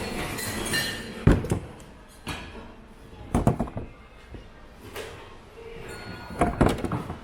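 Hard objects knocking and clunking together as they are picked up and set down while rummaging through a thrift-store bin: a string of separate thunks, the loudest about a second in, another pair about three and a half seconds in, and a quick cluster near the end.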